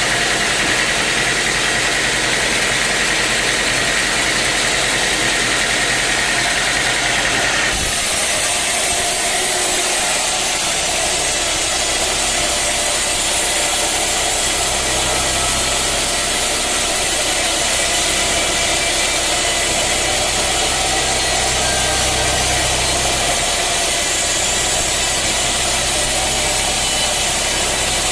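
Sawmill machinery running steadily, an engine-like drone with a high hiss over it; the sound changes abruptly about eight seconds in.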